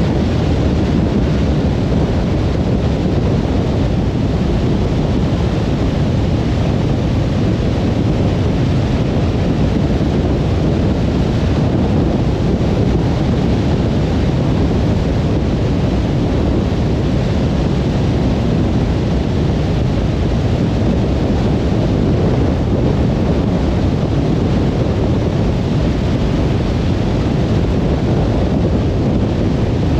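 Steady road noise of a car driving on a motorway: an even, low rumble of tyres and wind that does not change.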